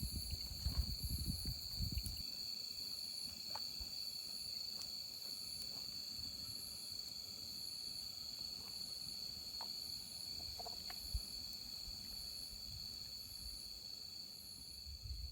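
Night insects, crickets among them, calling: a steady high trill under a higher chirp that repeats about once a second, with a few faint clicks and a low rumble in the first two seconds.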